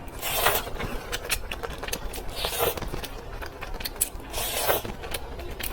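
Food packaging being handled: rustling and scraping in swells about two seconds apart, with many small sharp clicks.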